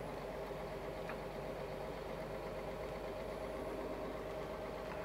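Scania truck's diesel engine running steadily under load, heard from inside the cab, as the empty truck keeps pulling on a snowy road.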